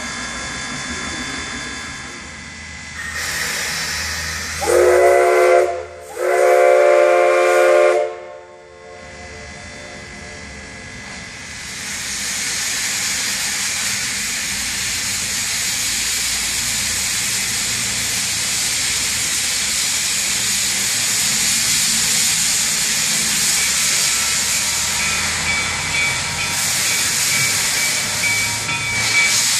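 Steam locomotive whistle sounding two loud blasts, the second a little longer. About twelve seconds in, a loud, steady hiss of escaping steam begins and continues.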